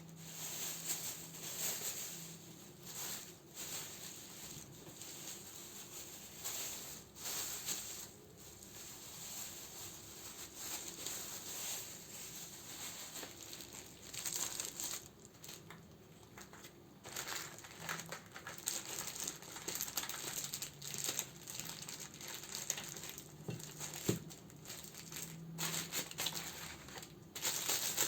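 Plastic wrapping and paper crinkling and rustling as candles are handled and sorted, in uneven bursts with occasional sharp clicks.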